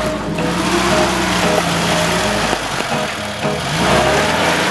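UAZ 4x4's engine revving as the vehicle works through deep snow and mud, its pitch rising about three and a half seconds in, with music playing over it.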